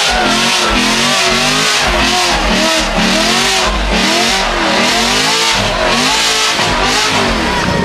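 Car engine revved hard over and over, its pitch rising and falling about once a second, while the spinning rear tyres of a burnout make a steady hiss.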